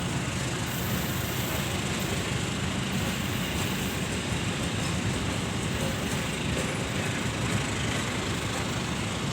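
Diesel train running, with a steady rumble and a low engine hum.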